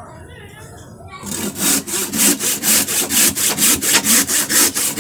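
Hand wood saw with freshly filed, sharpened teeth cutting through wood in a test cut, starting a little over a second in with quick, even strokes of about four a second.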